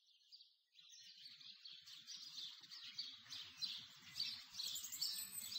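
Many small birds chirping and twittering together, quiet at first and growing steadily louder as it fades in.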